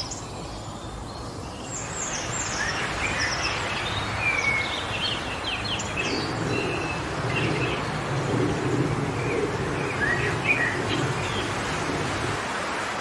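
Wind rushing through forest trees as a steady noise that swells into stronger gusts in the middle. Small birds chirp and twitter over it after the first couple of seconds.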